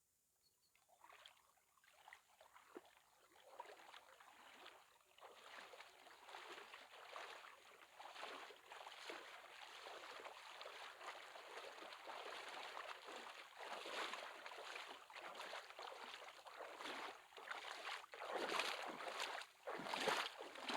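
Water splashing and sloshing as a person wades and swims in cold water, starting about a second in and growing louder, with bigger splashes near the end.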